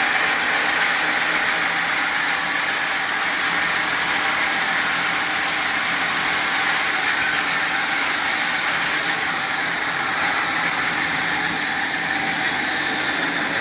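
Rubber and EVA foam splitting (skiving) machine running steadily: a constant machine hum with a strong hiss.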